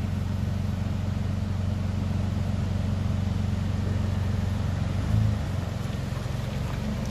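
Nissan Patrol 4WD's engine running steadily as the vehicle crawls through a deep mud rut, with a brief rise in revs about five seconds in.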